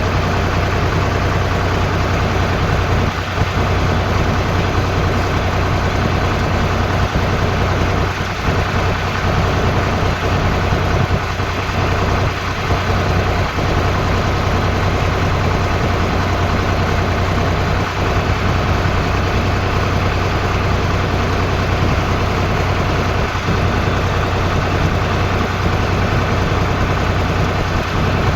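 Tractor engine running steadily at an unchanging speed: a loud, deep, constant hum.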